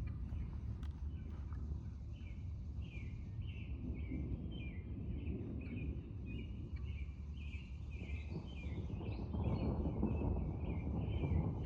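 A bird chirping short notes over and over, two or three a second, over a low rumble that grows louder about nine seconds in.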